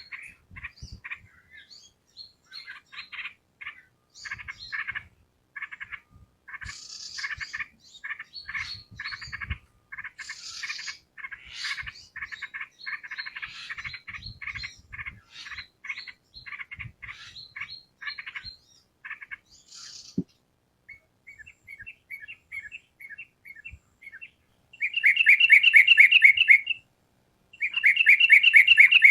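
Yellow-vented bulbul (trucukan) song: a run of short, quick chattering notes. About 25 seconds in it changes to loud, rapid trills, heard twice.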